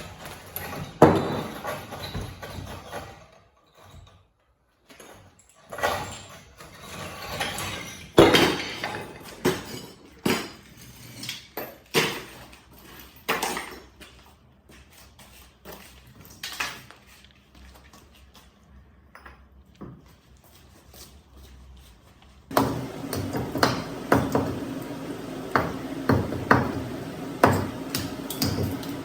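Irregular knocks, taps and metallic clinks of hand-tool work, with no steady rhythm. About 22 seconds in, a steady low hum comes in suddenly under more knocking.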